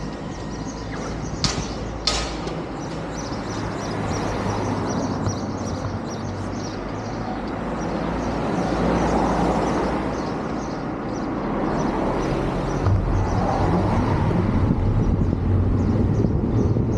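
A motor vehicle engine running, its pitch shifting and rising again about thirteen seconds in, with road noise. Two sharp clicks come about a second and a half and two seconds in.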